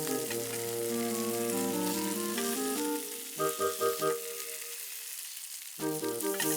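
Food sizzling as it fries, a steady hiss, under background music that drops out for a moment near the middle.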